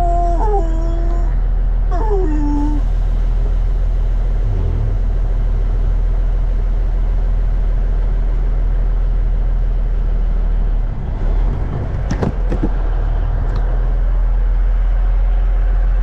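Diesel engine of a 1989 Kenworth K100E cabover truck running steadily. A few short squeaky sliding tones come in the first couple of seconds, and a brief dip with a couple of knocks comes about twelve seconds in.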